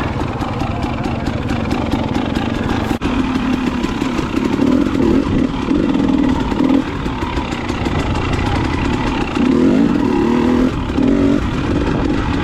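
KTM dirt bike engine running as it is ridden over single track, the throttle opened in several louder bursts in the second half, with a brief drop in the engine sound about three seconds in.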